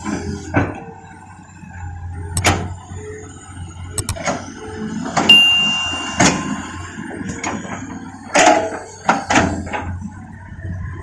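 Hitachi Zaxis 210 excavator at work: the engine runs steadily under a series of irregular metallic clanks and knocks from the bucket and dirt. A brief high squeal comes about five seconds in.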